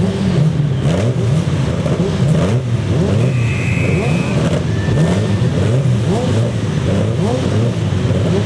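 A grid of saloon and sports racing cars revving their engines together while waiting for the race start, many engine notes rising and falling in pitch over one another. A short high tone sounds about three seconds in.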